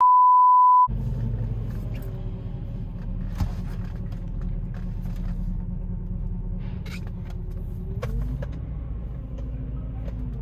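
A one-second steady beep, a censor bleep, then the steady low rumble of the Mercedes-Benz CLS's engine running.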